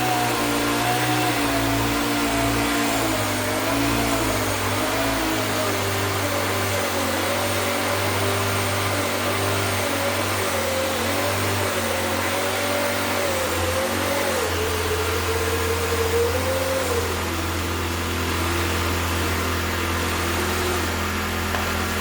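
Small electric motors whining steadily over a low hum, the whine wavering and drifting slowly lower in pitch, with a small step down about two-thirds of the way through.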